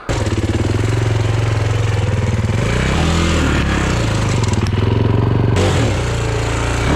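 Husqvarna TE 300 two-stroke dirt bike engine, coming in suddenly and running steadily at low revs. The pitch rises briefly twice, about three seconds in and again near six seconds.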